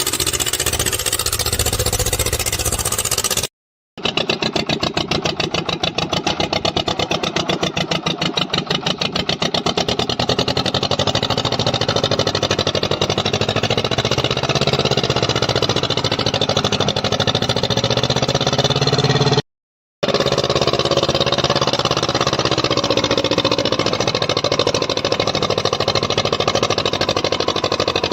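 Swaraj tractor's diesel engine running, its firing pulse steady, with the engine speed drifting up and down in places. The sound cuts out completely twice, briefly.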